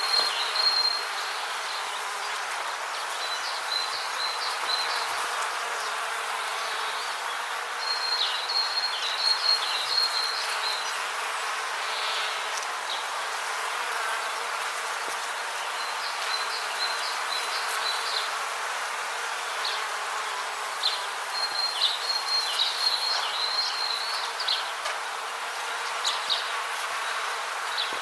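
Rainforest ambience: a steady hiss with high, rapid chirping trills that come and go in clusters every few seconds.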